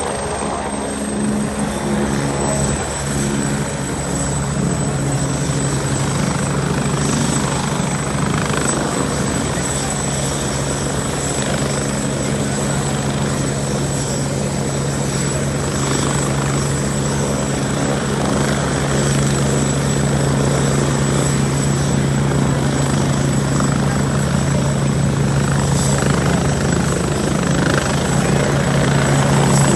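Helicopter running steadily, its rotor and engine sound slowly growing louder.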